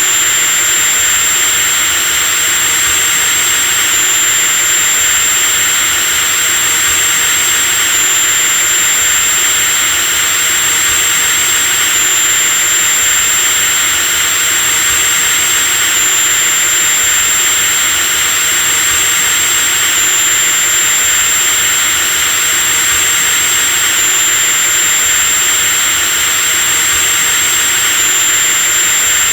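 Electric drill running continuously at a constant speed: a steady high whine over a hiss, with a slight hitch about every four seconds where a short recording loops.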